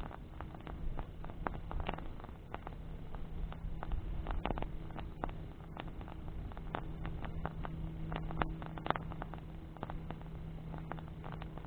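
Bonfire of burning branches crackling, with irregular sharp pops and snaps over a low rumble of flame. A faint steady hum runs underneath.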